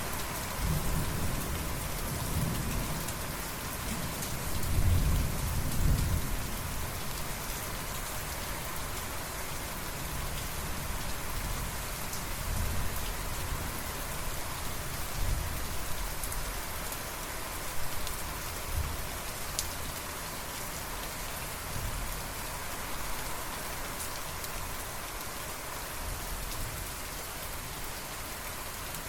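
Steady rain falling, with a low thunder rumble that is loudest in the first six seconds or so and then fades to fainter rumbles.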